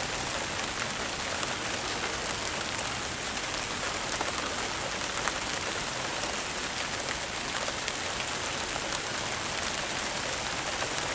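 Steady rain falling, a continuous even hiss with many small drop ticks on a nearby surface.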